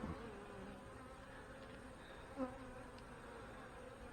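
Honey bees buzzing around an open hive: a faint, steady hum of many bees, with one brief soft sound about halfway through.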